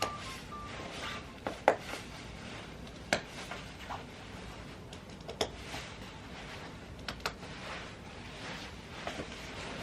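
A handful of sharp clicks and light knocks, spaced a second or more apart, over faint room hiss, with the last notes of background music fading out at the start.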